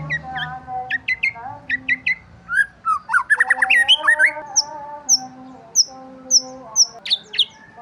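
Several birds chirping and singing together, with quick trills and chirps; in the second half one bird repeats a short, high, falling note about twice a second.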